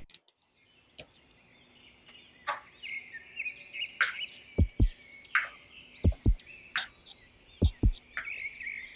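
Birdsong chirping over a soft background beat. Sharp hits come about every second and a half, and pairs of low kick-drum thumps join about halfway through.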